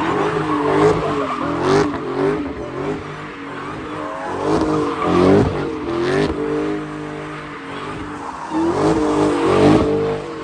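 A car drifting: the engine revving up and down again and again while the tires squeal and skid on the pavement.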